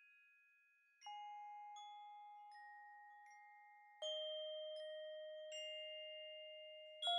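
Quiet background music of slowly struck, bell-like tones that ring on and fade. A stronger, lower note comes in about a second in, again near the middle and again near the end, with fainter higher notes between them.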